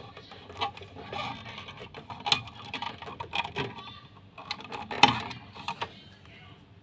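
Irregular clicks, knocks and rattles of hands handling a clamp meter and its leads as it is set up on the refrigerator's power cord, with a sharper knock about two seconds in and the loudest one about five seconds in.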